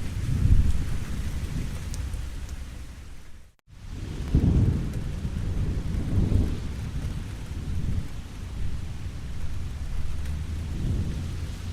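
Steady rain falling, with low rolling thunder rising and fading in several swells. The sound cuts out briefly, for a fraction of a second, about three and a half seconds in, then returns with a louder rumble.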